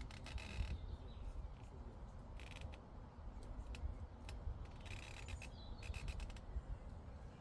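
Llamas cropping grass: short bursts of rapid crisp tearing and snipping, four times, over a steady low wind rumble on the microphone, with faint birdsong.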